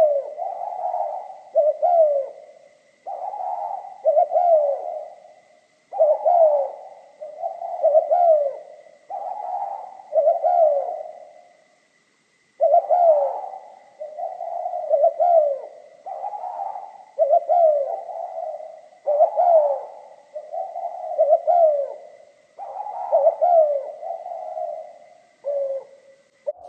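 Spotted dove cooing in repeated phrases of coos, one every second or two, with a short break about halfway. A faint steady high whine sits underneath and stops near the end.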